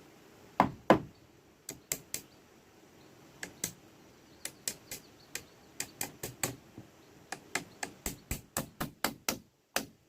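Repeated sharp knocks of a hand tool striking wood or bamboo, in irregular runs of blows that quicken to about four a second near the end; the two loudest strikes come within the first second.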